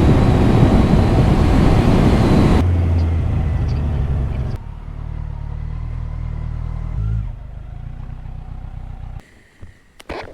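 Wind rush over the rider and a Kawasaki Ninja 1000SX's inline-four engine running on the road. After about two and a half seconds the wind drops away as the bike slows, leaving the engine's low steady note, which steps down twice. The sound fades out about nine seconds in and is followed by a couple of sharp clicks.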